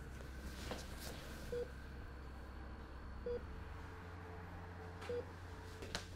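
Short, even electronic beeps from a medical monitor, three in a row about two seconds apart, over a steady low hum.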